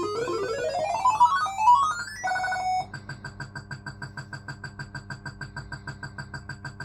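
Barcrest MPU3 Autoroute fruit machine playing its electronic jackpot sounds: a stepped run of beeping tones climbing in pitch, a short held chord, then a fast even run of beeps, about six a second, that stops near the end.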